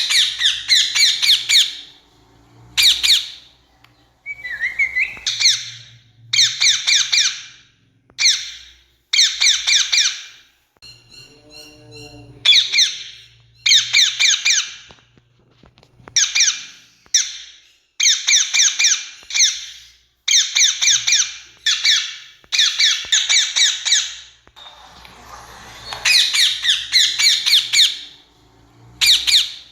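Rose-ringed parakeets screeching: loud, harsh calls delivered in repeated bouts, each a fast run of shrill notes lasting one to two seconds, with short pauses between. Around eleven seconds in there is a brief, softer run of different notes.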